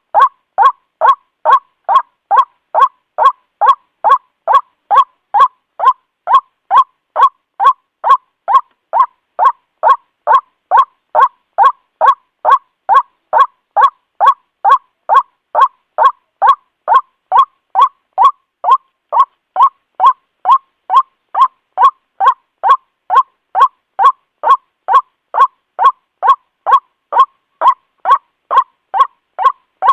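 White-breasted waterhen's call: short, loud notes repeated evenly about twice a second without a break, a lure call played to draw waterhens in for trapping.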